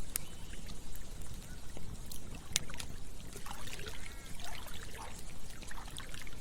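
Campfire crackling with scattered sharp pops, over the steady low rush of running water and a few short gurgles from a stream.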